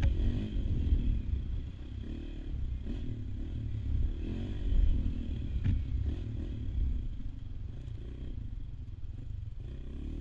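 AJP PR7 Adventure's single-cylinder engine running as the motorcycle rides off-road, its revs rising and falling, under a heavy low rumble.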